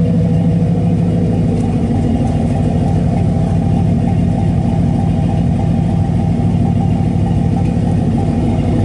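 1975 Ford F-150's 302 (5.0-litre) V8 with a Holley four-barrel carburettor idling steadily.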